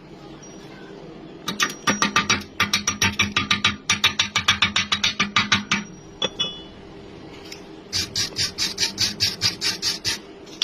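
Rapid, evenly spaced sharp clicks, about six a second, lasting about four seconds. A second, shorter run of clicks comes near the end.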